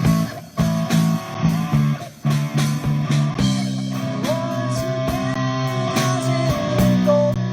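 Classic rock trio playing: an electric guitar lead with bent notes over bass guitar and a drum kit keeping a steady beat.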